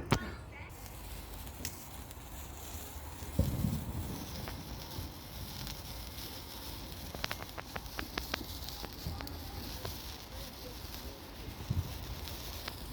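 A burning sparkler fizzing with a steady hiss and scattered sharp crackles, which bunch together in a quick run past the middle. A dull low thump comes about three seconds in.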